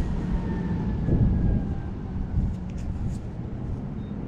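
Low rumbling wind noise buffeting the microphone, with a faint, slowly falling whine over the first two seconds and a few light clicks.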